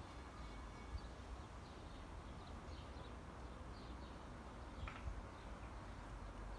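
Faint outdoor ambience of small birds chirping here and there over a low background rumble, with one slightly clearer call about five seconds in.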